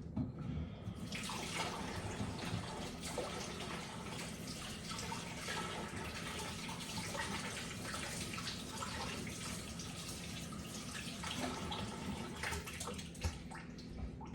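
Kitchen tap running into a sink: a steady rush of water that starts about a second in and stops near the end, followed by a few light knocks.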